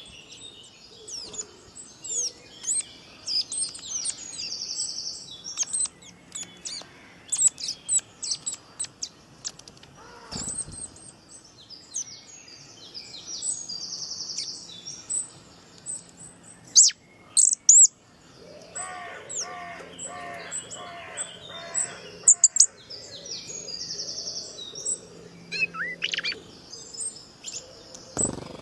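Several birds chirping and singing: many short high chirps, whistles and trills, with a lower repeated call in the middle.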